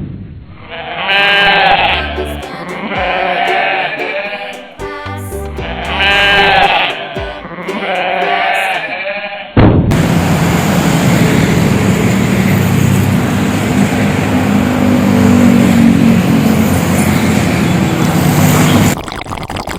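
Goat bleating four times in a row, each a long wavering cry. About ten seconds in it cuts to a steady loud rushing noise with a low droning tone.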